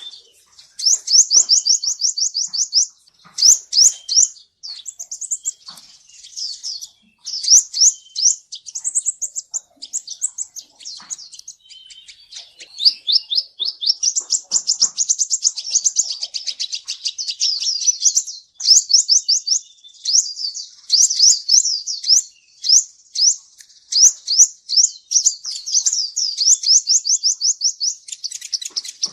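Kolibri ninja sunbird singing: fast, high-pitched trills of short sweeping notes, about ten a second, in bursts with brief pauses.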